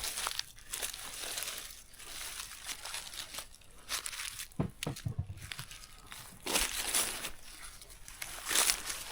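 Irregular crinkling and rustling of handled material, with a few low thuds about halfway through.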